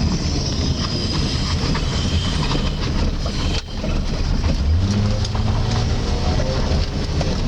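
Toyota 1JZ-GE inline-six engine in a GAZ Volga running through an Audi Q7 exhaust while the car is driven. The engine note is steady, dips briefly about three and a half seconds in, then picks up again.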